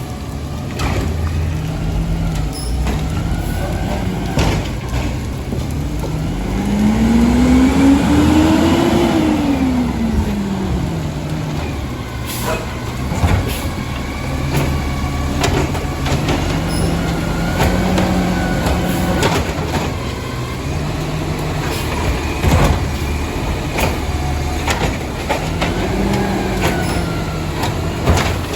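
Garbage truck engine revving up and down under hydraulic load as carts are lifted and dumped, with a long rise and fall about a quarter of the way in and smaller swells later. Sharp bangs of plastic trash carts being slammed against the hopper ring out several times throughout.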